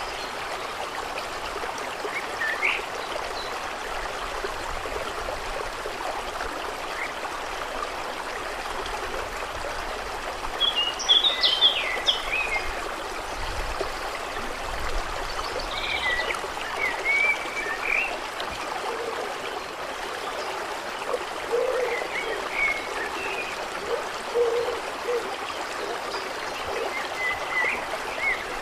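Steady flowing, trickling water with birds chirping now and then, the loudest burst of chirps about eleven seconds in.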